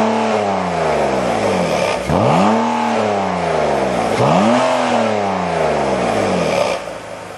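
BMW E39 530i's straight-six engine revved through a Pico Sound variable exhaust. It is falling back from one rev at the start, then blipped twice more, about 2 s and 4 s in; each time the pitch rises sharply and sinks slowly back toward idle. The sound drops away suddenly near the end.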